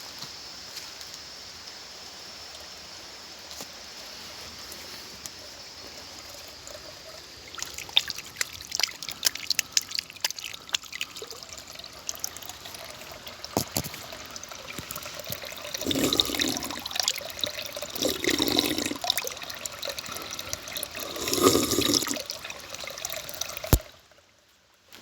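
Water trickling and being poured, with many small clicks and knocks of handling from about eight seconds in. Three louder spells of pouring follow later, and the sound cuts off abruptly with a click near the end.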